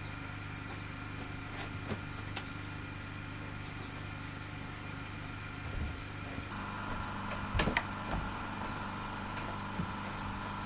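A steady mechanical hum with a few light knocks; the hum's tone changes about two-thirds of the way through.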